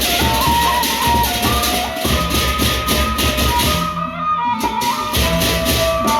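Gendang beleq ensemble playing: large drums underneath, cymbals keeping a fast even beat, and a high melody of held notes stepping in pitch. The cymbals drop out for about half a second around four seconds in.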